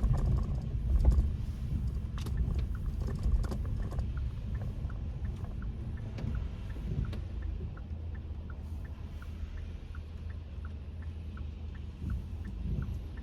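Kia K5 (DL3) cabin while driving on a wet road: steady low road and engine rumble, with a few sharp taps in the first four seconds. From about four seconds in, a regular light ticking, about three ticks a second, joins it.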